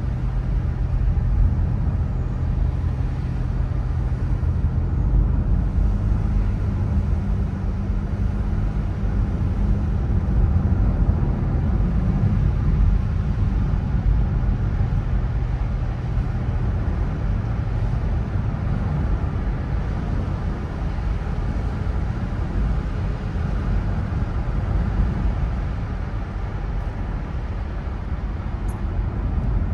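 A car driving, a steady low engine and road drone whose hum shifts in pitch a few times.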